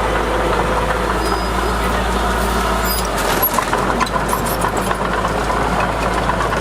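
Heavy diesel earthmoving machinery running steadily, with a few short clanks and rattles about three to four seconds in.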